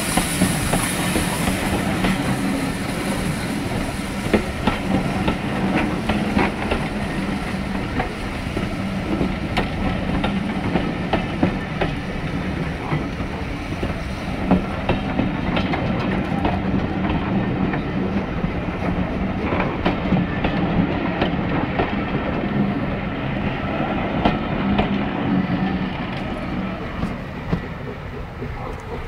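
Train passing on the line, its wheels clicking over rail joints amid a steady rolling rumble. It grows fainter in the second half as it moves away.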